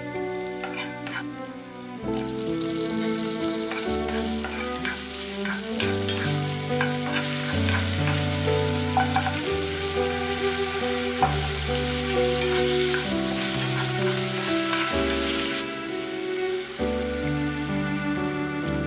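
Onion, garlic, bacon and shrimp sizzling in olive oil in a frying pan, with a wooden spatula clicking against the pan in the first two seconds. The sizzle swells a few seconds in and stops suddenly a few seconds before the end. Soft background music plays underneath.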